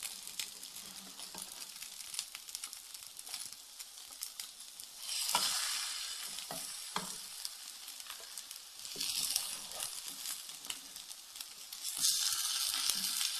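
Cabbage-and-egg nests frying in oil in a pan, a steady sizzle that swells louder about five, nine and twelve seconds in, with scattered light clicks and taps.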